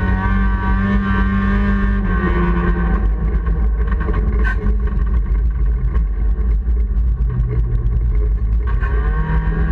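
Honda Civic race car's engine heard from inside the cabin, running hard at high revs. Its note drops about two seconds in, stays lower for several seconds, then climbs again near the end as the car accelerates.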